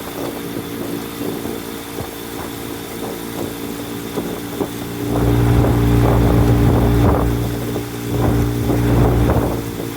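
Motorboat engine running at a steady pitch. About halfway through a much louder low rumble comes in and lasts about four seconds.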